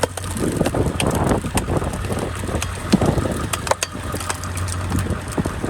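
Stickler screw-cone log splitter turned by a truck's wheel hub, boring into a log with irregular cracks and crunches of splitting wood. Under it, a steady low hum from the truck idling in drive at about 750 to 800 RPM.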